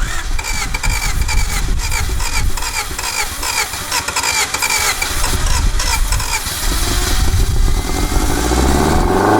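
A 1991 Honda CRX Si's 1.6-litre four-cylinder engine being cranked over and over by the starter to clear diesel from the cylinders of the long-seized engine. It catches about seven seconds in, and the engine speed rises.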